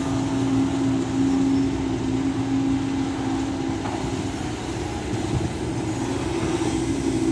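SANY SY215C excavator's diesel engine and hydraulics running steadily, a constant hum with two steady tones over a low rumble.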